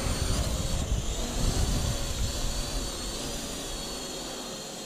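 Parrot AR.Drone 2.0 quadcopter's electric motors and propellers running with a steady high whine. Wind rumbles on the microphone at first and eases off about halfway.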